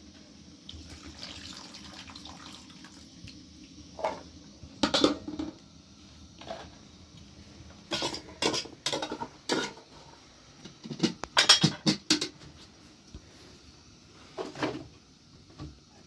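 Irregular clattering and knocking of hard objects, in short groups of strikes with pauses between, the busiest stretches coming about halfway through and again a little later.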